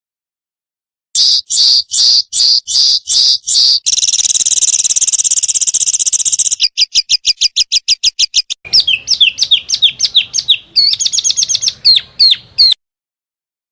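Small songbird singing a loud, rapid-fire 'tembakan' song. It opens after about a second with a series of sharp high notes, then runs into a buzzy trill, a very fast trill and a string of varied looping notes, and stops shortly before the end.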